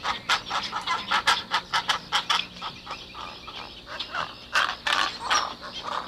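A group of pelicans calling: many short calls in quick succession, overlapping one another, breaking off near the end.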